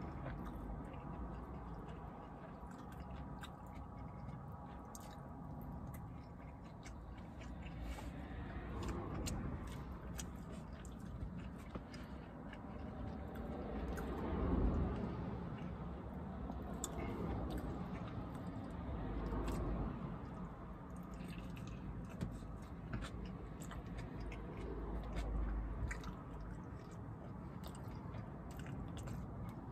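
A person chewing and biting into a vegan turkey sandwich close to the microphone inside a car cabin, with wet mouth sounds and many small clicks and crunches, a little louder about halfway through.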